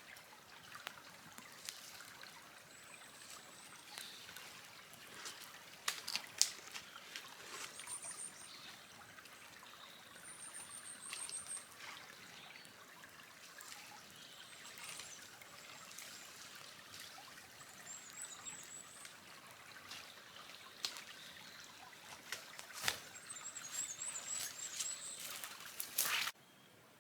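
Campfire crackling: sharp pops and snaps of varying loudness over a steady hiss. A small bird's high, thin trills come in several times. The sound cuts off suddenly near the end.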